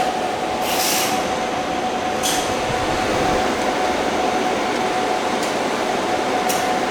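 Cold spark (cold fireworks) machine running on a battery pack: a steady mechanical whir with a constant tone. Short hissing spurts come about a second in, at about two seconds and near the end.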